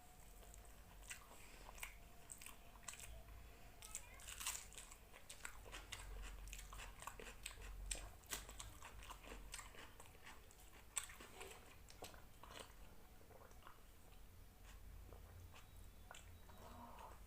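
A person chewing and biting through a mouthful of rice and chicken curry: quiet, irregular mouth clicks and crunches, several a second.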